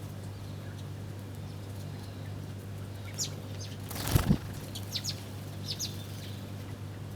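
Small birds giving short, high chirps, with a loud flurry of wingbeats about four seconds in, over a steady low hum.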